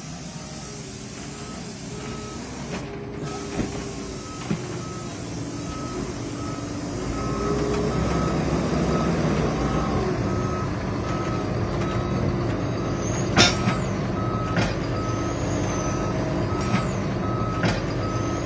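JCB 4220 Fastrac tractor's engine running under load and picking up about seven seconds in as it works the bale chaser at the stack. A reversing alarm beeps at an even pace through most of it, and a few short hisses come near the end.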